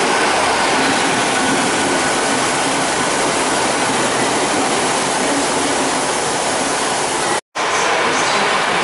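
GWR Class 800 intercity train running past along the platform: a steady rush of train noise with a faint whine. The sound cuts off abruptly about seven and a half seconds in, and a Transport for Wales diesel multiple unit is then heard moving at the platform.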